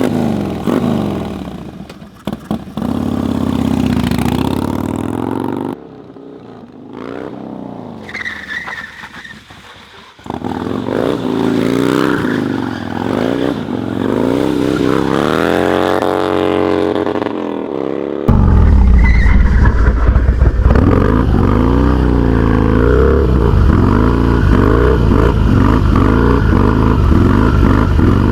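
Harley-Davidson V-twin motorcycle engine revving hard, its pitch rising and falling again and again as the bike is drifted. It comes in several short stretches and is louder from about two-thirds of the way in.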